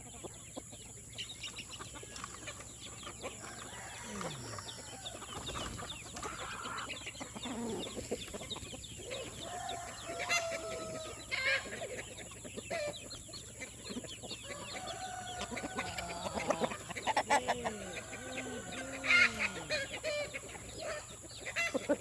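A flock of chickens clucking and squawking, many short calls overlapping, louder and busier in the second half.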